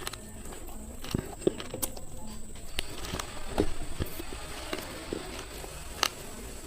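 Slate pencils being bitten and chewed up close: irregular sharp crunches and cracks, with the loudest snaps about one and a half, two, three and a half and six seconds in.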